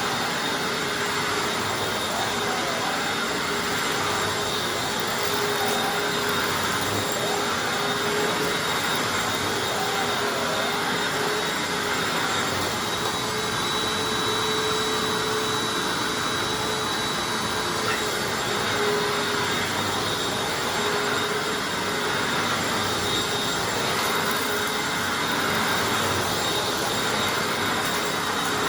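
Hoover Anniversary self-propelled upright vacuum cleaner running steadily: a constant rush of airflow with a steady motor hum and a thin high whine held throughout.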